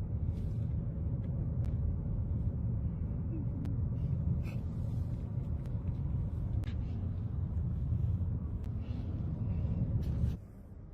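Steady low rumble of a car being driven, heard from inside, with faint voices and a few clicks. It cuts off suddenly about ten seconds in.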